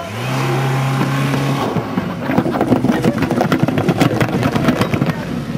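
Rally car's engine held at a steady, high note, then a rough rush of noise with a dense run of crackles and clicks as the car passes close by.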